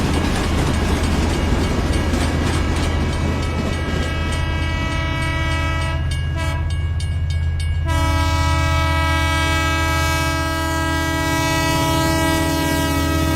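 Train horn sounding in long, held chords over a steady low running hum. The horn breaks off about six seconds in and starts again about two seconds later.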